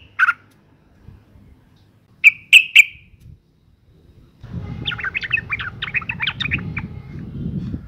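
Female yellow-vented bulbul calling: a short falling note, three sharp chirps about two seconds in, then a rapid run of chattering notes from about halfway, over a low background rumble. It is the female's mating call, used as a lure to set males singing.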